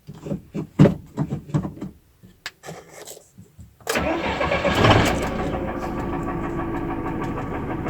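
A few scattered clicks and knocks, then an Evotech A274 2.7-litre engine starts about four seconds in, picks up briefly and settles into a steady idle. A knock is present at idle, the fault that brought the engine in.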